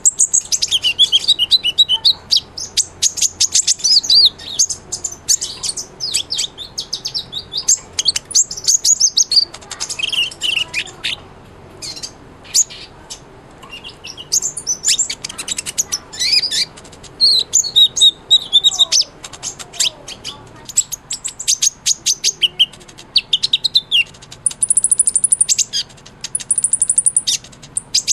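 A sunbird (the 'kolibri ninja' of Indonesian bird keepers) singing continuously: rapid, high-pitched chirps and twittering trills in bursts with short pauses, and thin buzzy trills near the end.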